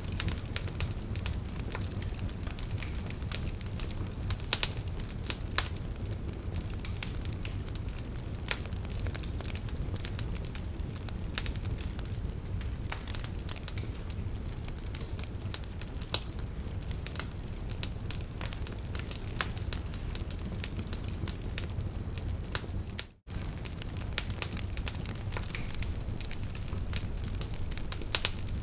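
Wood fire burning in a fireplace: sharp, irregular crackles and pops over a steady low rumble of the flames. The sound drops out for an instant about three quarters of the way through.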